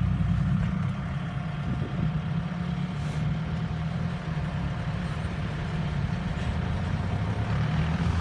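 Diesel engine of heavy machinery running steadily at a constant speed.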